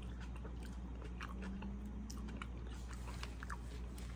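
A person chewing a bite of soft taco, with faint scattered small clicks of chewing and mouth sounds.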